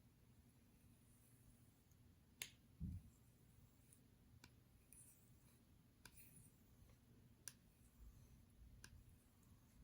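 Near silence with a few faint, scattered clicks and one soft low thump about three seconds in.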